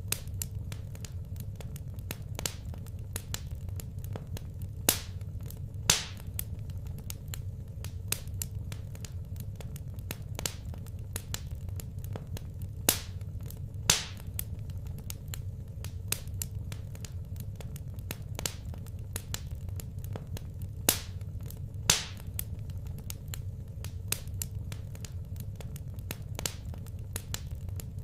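Wood fire burning in a fireplace: crackling with many small ticks, and a louder pop every few seconds, often two a second apart, over a steady low rumble.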